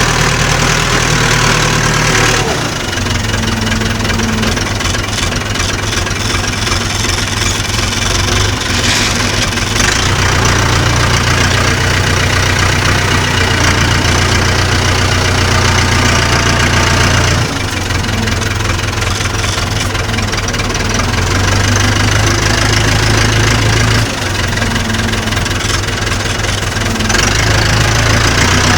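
Massey Ferguson tractor's diesel engine running, its note stepping up and down several times as the engine speed changes.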